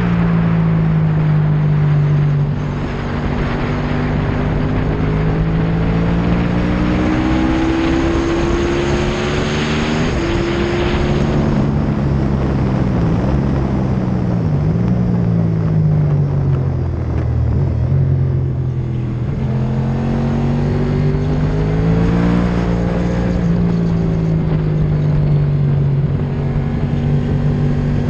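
Motorcycle engine heard onboard at speed. Its pitch climbs and falls with throttle and gear changes, with several quick dips around the middle, over steady wind rush on the microphone.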